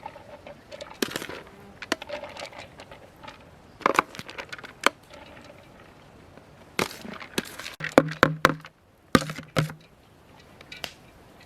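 An irregular series of sharp knocks and clicks, about a dozen, with a few in quick clusters a little past the middle.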